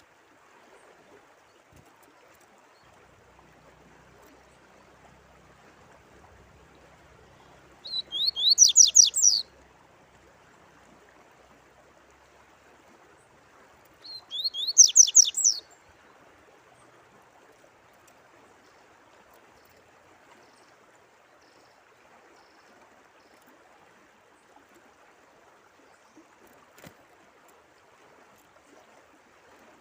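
A songbird sings two short phrases, each a quick run of high, sharply falling notes, about eight and fourteen seconds in. Under them runs a steady faint sound of flowing water.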